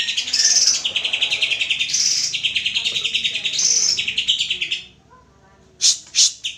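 Green leafbird (cucak ijo) song: a fast, rattling trill of rapidly repeated notes with brighter, higher phrases laid over it. It breaks off about five seconds in and is followed by two short, sharp calls near the end.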